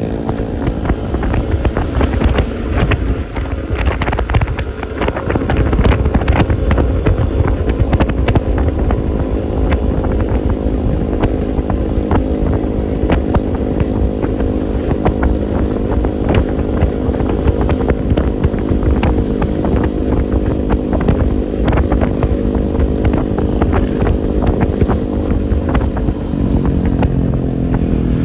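Yamaha Lexi LX 155 scooter's single-cylinder engine running steadily at cruising speed, with wind on the microphone and road noise. Frequent small clicks and rattles sound throughout.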